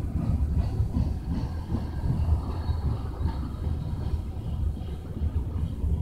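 Covered hopper cars of a Kansas City Southern de México freight train rolling past, their wheels on the rails making a steady low rumble.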